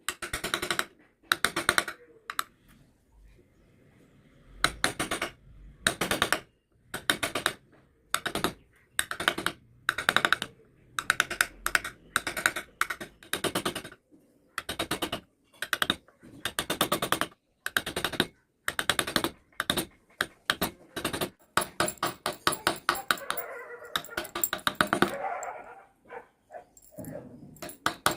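Hand tool scraping and cutting wood in short rasping strokes, about one or two a second.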